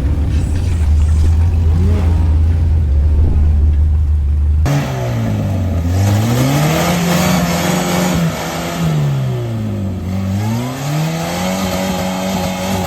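A steady low drone, then, after an abrupt cut about five seconds in, an engine revving up and down in slow, repeated swells.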